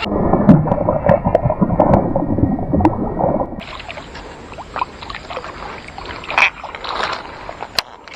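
Water sloshing and gurgling, loud and muffled for the first few seconds, then quieter splashing broken by a few sharp clicks.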